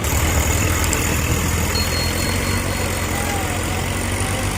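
Tractor diesel engine running steadily with a deep, even drone.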